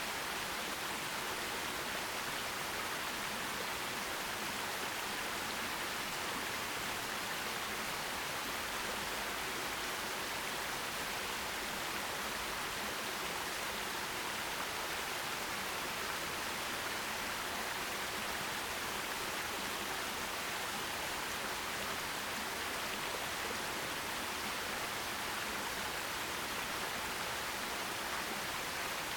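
Forest stream water rushing and splashing, a steady even hiss without pauses or changes.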